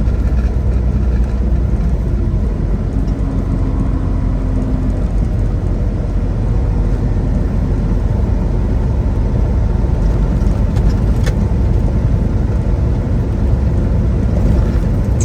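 Steady engine and road drone inside a semi-truck's cab while it cruises on the highway.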